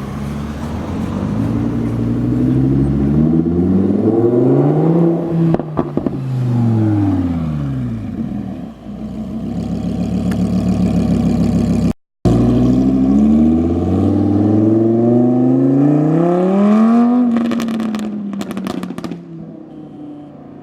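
Lamborghini Huracán LP610-4's V10 through a Capristo exhaust. It revs up in a long rising pull, then falls in pitch, with a few sharp crackles at the peak about five seconds in. After a cut a second pull rises and falls the same way, with a burst of crackles and pops near the end as the sound fades away.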